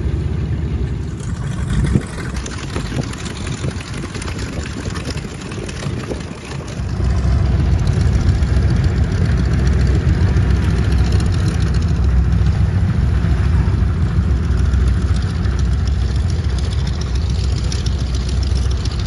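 Radial piston engines of vintage warbird aircraft running at low power while taxiing, a deep steady rumble. It grows much louder about seven seconds in and stays there.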